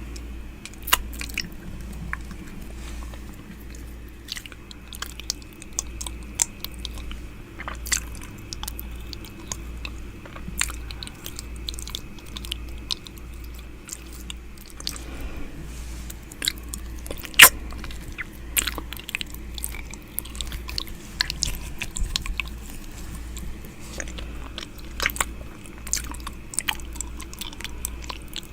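ASMR "ear eating": close-miked wet mouth sounds, with lip smacks, tongue clicks and licking right at the microphone. The clicks come irregularly, one much louder a little past the middle.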